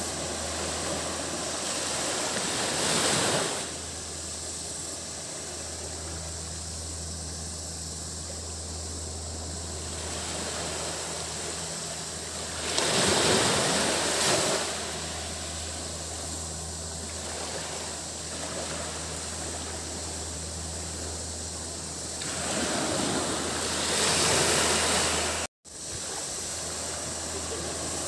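Waves washing onto a sandy beach, three breaking surges about ten seconds apart, over a steady high cicada drone and a low hum. The sound cuts out for a split second near the end.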